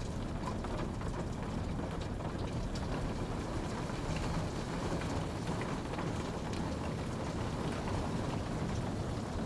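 Steady rainfall with scattered droplet ticks over a dense low rumble.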